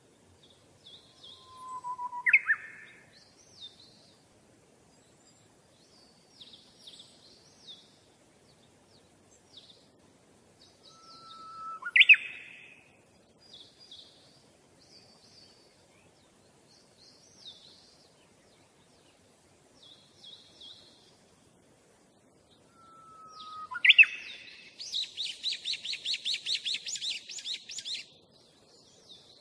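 Birds chirping: many short high chirps, with a louder short rising call three times, about ten seconds apart. Near the end comes a fast trill of about three seconds.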